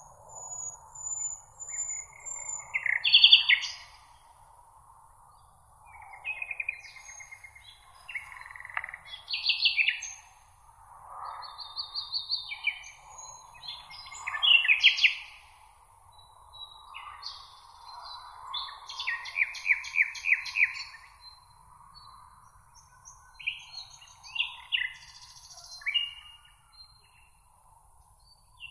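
Several songbirds singing and calling, one short trilled or chirping phrase after another with brief gaps, over a faint steady background hiss.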